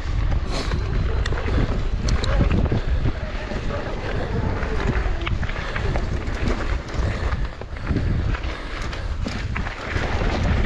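Mountain bike riding down a bike park trail: wind rushing over the microphone, with the tyres and the bike clattering over the ground in many short knocks.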